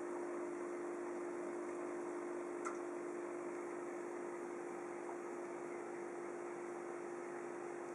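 Steady hum and hiss of running aquarium equipment, with one faint click about two and a half seconds in.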